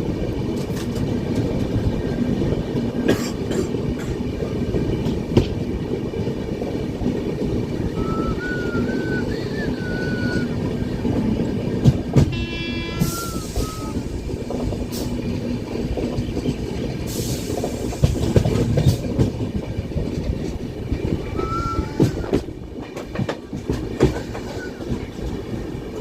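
Indian Railways passenger train running along the track, a steady rumble with rattling and clattering from the wheels and carriages. Scattered clicks and a few short high tones come through the rumble, one of them about halfway through.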